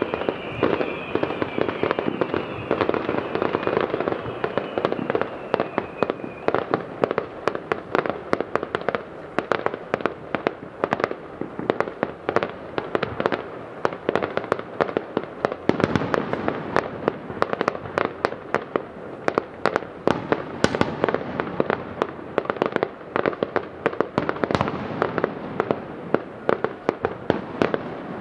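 Fireworks display heard from about 700 m away: a dense, continuous run of bangs and crackling bursts. Two whistles slide down in pitch through the first six seconds or so.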